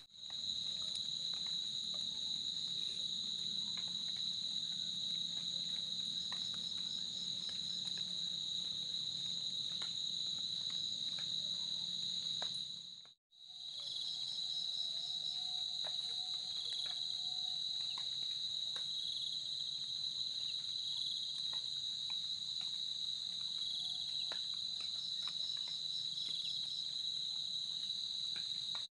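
Night insects, crickets, trilling in a steady high-pitched chorus that drops out for a moment about halfway through.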